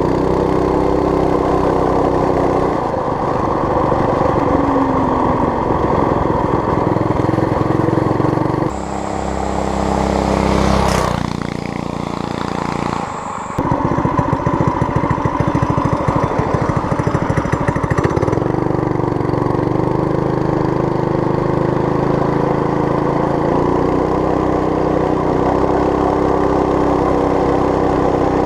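Predator 212cc single-cylinder four-stroke engine of a homemade mini bike running under way, its note rising and falling with the throttle. About nine seconds in the sound changes and drops for a few seconds, then the engine note returns.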